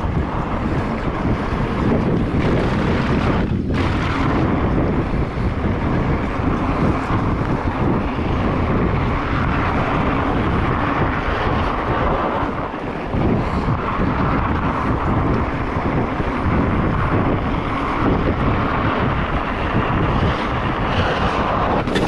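Wind buffeting the microphone over the steady rumble of fat bike tyres rolling along at riding speed.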